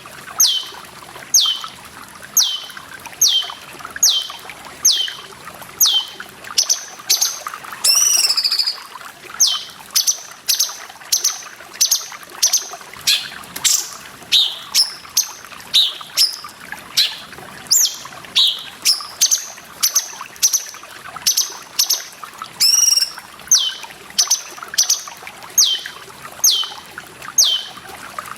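Cucak cungkok calling: a fast, steady series of short whistled notes, each falling in pitch, about one and a half a second, broken twice by a longer wavering call. Trickling water runs underneath.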